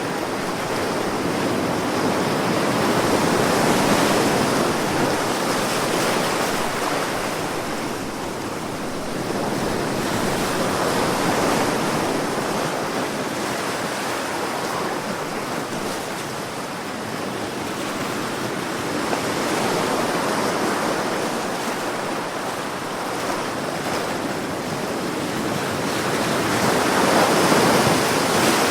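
Sea waves breaking and washing in a continuous hiss that swells and ebbs, one surge about every eight seconds.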